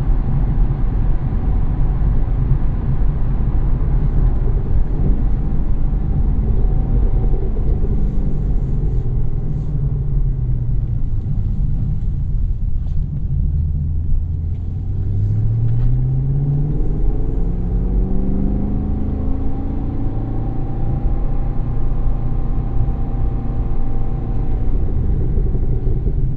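Chevrolet SS's 6.2-litre V8 heard from inside the cabin, running at low revs while the car is driven gently. Its note sinks, then rises smoothly in two climbs past the middle before holding steady.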